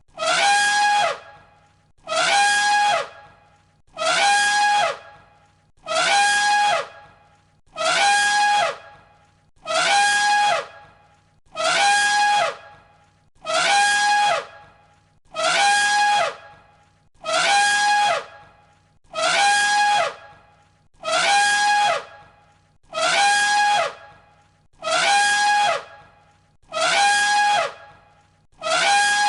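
An elephant trumpeting, the same call looped over and over, about every two seconds. Each call is a short, loud blast with a steady high note and a falling tone underneath.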